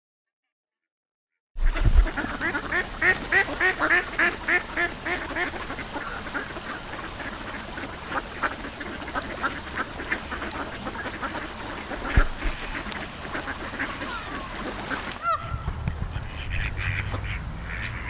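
Ducks quacking in a quick, dense run of short calls, about three or four a second, after a second and a half of silence. Near the end the sound cuts to a different clip with a low rumble under a few more duck calls.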